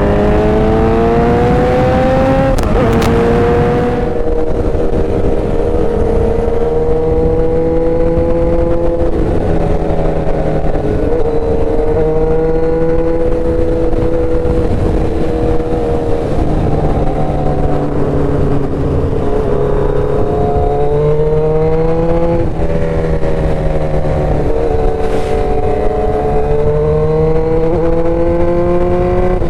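Motorcycle engine running under way. Its pitch climbs over the first couple of seconds, then holds fairly steady with small rises and falls as the throttle changes, over a constant low rush of wind on the microphone.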